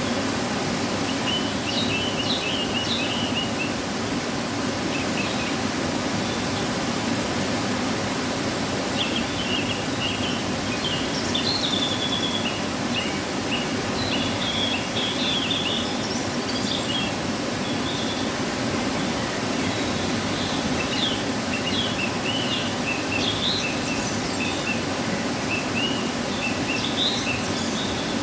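Waterfall rushing steadily, running full after rain, with birds chirping over it in short bursts of high calls several times.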